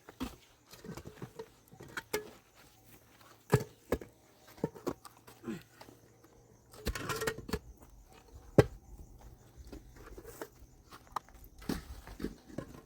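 Scattered knocks and clicks at uneven spacing, the loudest about three and a half and eight and a half seconds in, with a short scraping noise about seven seconds in.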